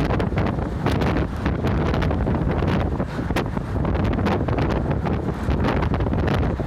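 Inside a moving route bus: steady engine and road rumble with wind buffeting the microphone, and frequent small knocks and rattles.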